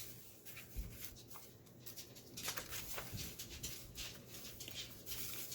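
Paper pages of a handmade journal rustling and softly tapping as they are turned and handled.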